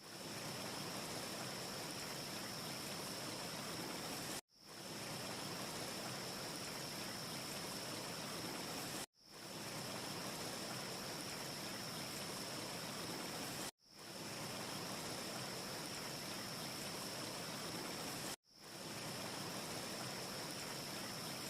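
Steady rushing noise with a faint high whistle and no crackling, from a short ambience recording that loops: it cuts out abruptly four times, about every four and a half seconds, and fades back in each time.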